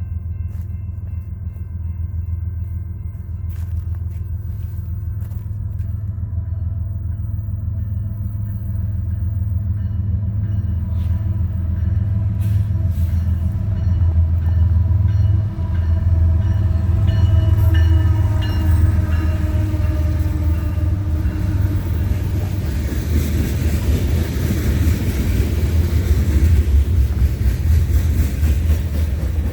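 A train approaching and passing: a steady low rumble throughout, a horn whose tones swell and slide slightly down in pitch around the middle, then a rising rush of wheels and air as the train goes by near the end.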